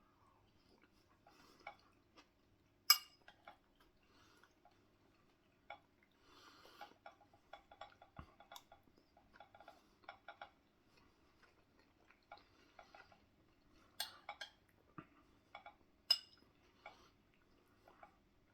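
Cutlery clinking and scraping against a plate during eating: scattered short clinks with soft scrapes between them, the sharpest about three seconds in and two more near the end.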